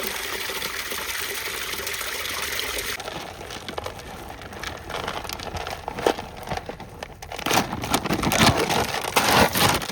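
Water running steadily from a tap into a dog's water bowl, stopping about three seconds in. Then a run of irregular rattling and rustling, louder near the end: a food bag being handled and dry dog kibble being poured into a bowl.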